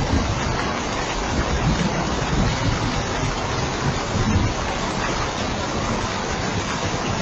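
Steady rain falling, an even, unbroken hiss with a denser low patter underneath.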